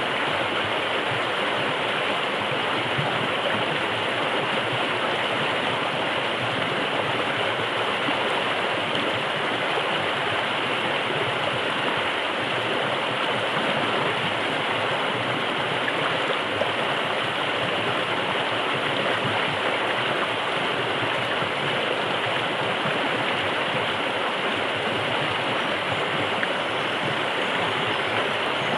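Forest river water rushing and splashing over rocks, a steady, unbroken rush.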